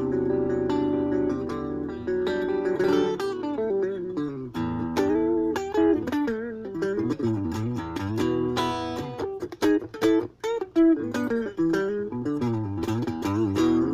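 Ibanez AXS42 electric guitar, rewired with vintage single-core wire, played solo: held chords ringing for the first four seconds or so, then a melodic single-note line with string bends and vibrato.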